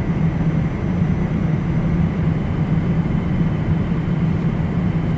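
Airliner cabin noise: a steady, low engine rumble heard from inside the plane, with a faint steady whine above it.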